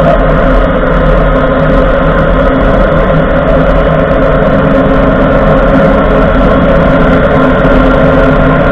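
Ford F-150 being driven, heard from under the truck by the front driver's-side wheel: steady, loud road and drivetrain noise with several constant tones and no change in pitch.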